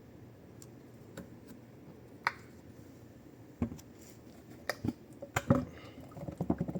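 Hand work on a top-loading washing machine: scattered sharp clicks and knocks of parts being handled, then a quick run of small clicks near the end.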